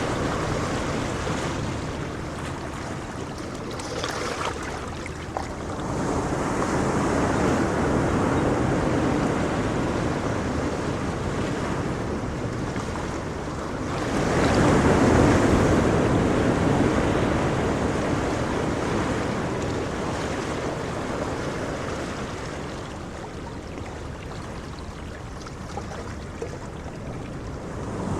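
Ocean waves washing ashore, each wave swelling and falling back slowly; the biggest swell comes about halfway through.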